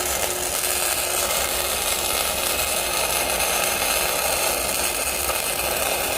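Electric arc welding: one continuous weld run with a steady crackling hiss, fixing a support in place.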